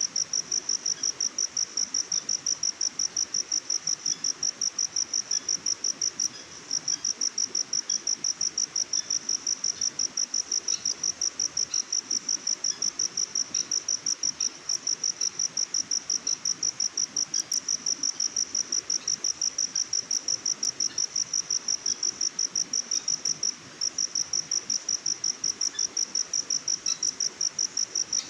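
A chirping insect, likely a cricket, keeps up a steady, fast, high-pitched pulsing trill that breaks off briefly three times. Fainter scattered chirps sound behind it.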